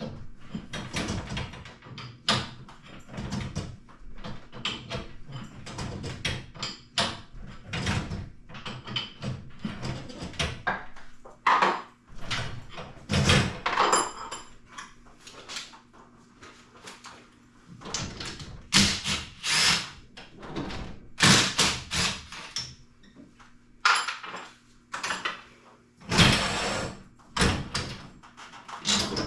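Irregular clanks, knocks and short rattles of hand work on garage door hardware, with a few louder scraping, rattling stretches.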